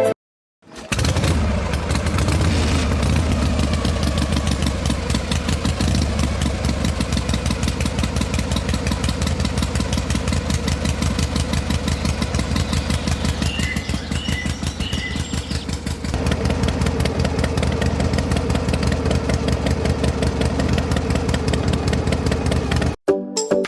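An engine starts about a second in and runs steadily with a rapid, even chug, its note shifting slightly about two-thirds of the way through before it cuts off near the end.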